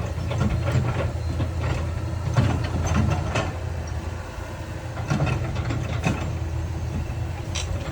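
Heavy diesel earthmoving machinery running with a steady low drone, with irregular metallic clanks and knocks over it.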